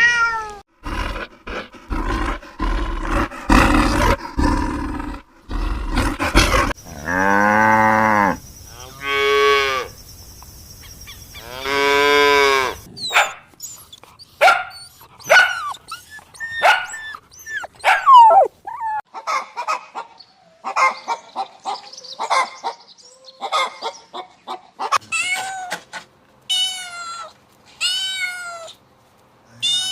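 A string of farm animal calls: two long, low, drawn-out cow moos in the first half, then many short high chirps and squeaks.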